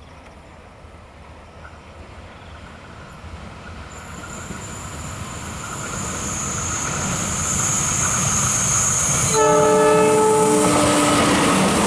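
Diesel train approaching along the track, its rumble building steadily with a thin high whine. About nine seconds in, the locomotive sounds its multi-tone horn in one blast of about a second and a half.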